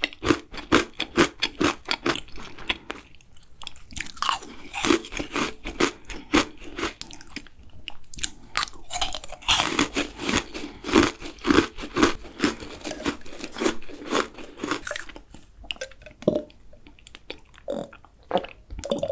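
Close-miked mouth chewing and crunching a macaron: many quick crisp crunches mixed with wet chewing, thinning out near the end.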